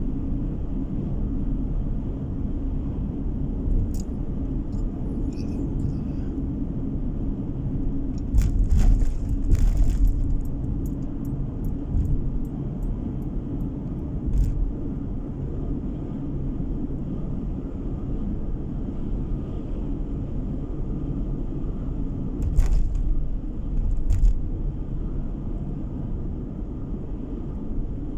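Steady road and engine rumble of a moving car heard from inside the cabin. There are short knocks and clicks around nine seconds in and again around twenty-three seconds.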